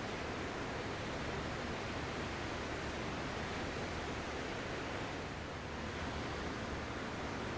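Ocean surf: a continuous, even wash of breaking waves that eases slightly about five and a half seconds in.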